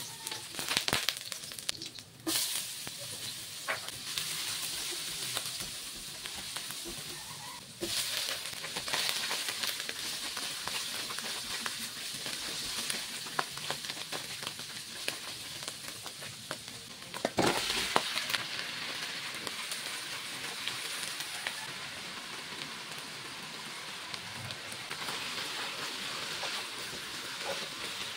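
Garlic, onion and mushrooms, then chicken pieces, sizzling in hot oil in a wok and stirred with a silicone spatula, with small taps of the spatula on the pan. The sizzle gets suddenly louder about 2, 8 and 17 seconds in.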